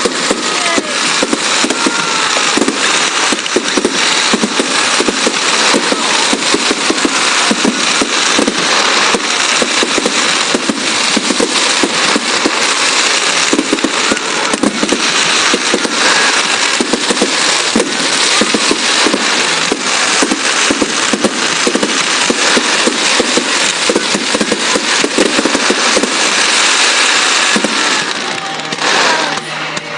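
Fireworks display: a dense, continuous barrage of bangs and crackling from many shells bursting at once, easing a little near the end.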